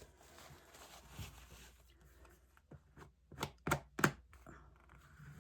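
Light taps or knocks on a hard surface while art materials are handled: a few short, sharp strikes in the second half, the last one near four seconds in the loudest.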